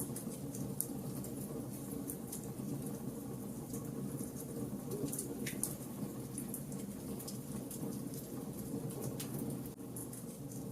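Campfire of burning charcoal, with frequent irregular crackles and pops over a steady low-pitched noise of the fire.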